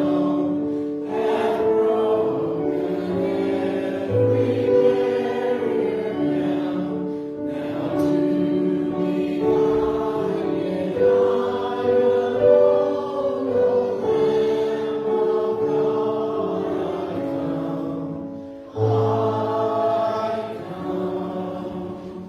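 A choir sings a hymn in several parts with held chords. The music fades out near the end.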